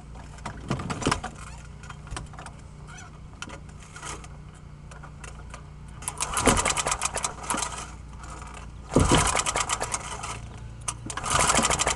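Old lawnmower's small engine being pull-started on a cold start: three pulls of the recoil starter cord, each about a second long, cranking the engine over in the second half.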